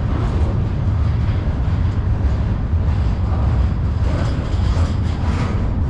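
Freight train cars rolling across an old steel railroad bridge, a loud, steady rumble strongest in the low end.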